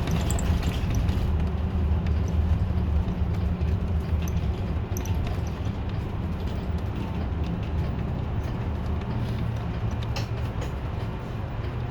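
City bus engine running under way, heard from inside the bus with road noise, a steady low drone whose pitch shifts about nine seconds in.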